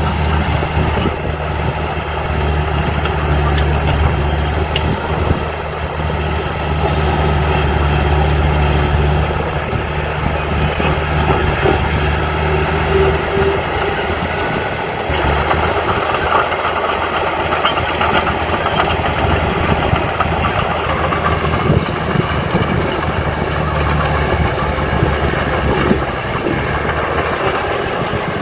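Heavy construction machinery's diesel engine running, with a steady low engine drone that gives way about halfway through to a rougher, noisier running sound.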